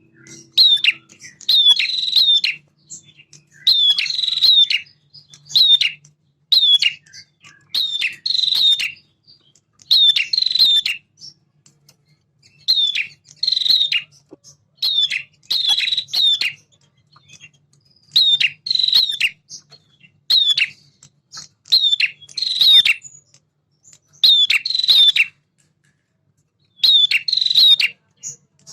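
Male prinia singing: loud, repeated bursts of sharp, falling chirping notes, a burst every second or two with a short pause in the second half. A faint low hum runs underneath.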